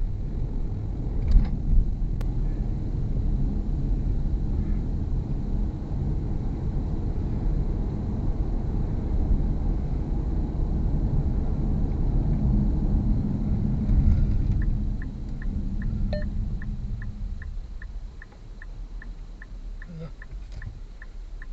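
Car driving, its engine and road rumble heavy and steady, easing off about fifteen seconds in. From then on a steady high ticking about twice a second.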